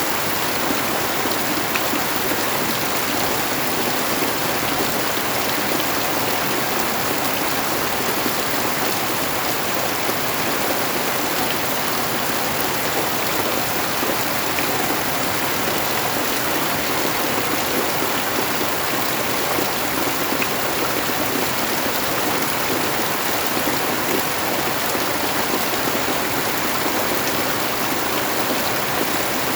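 Steady heavy rainfall, an even hiss of rain pouring down without a break.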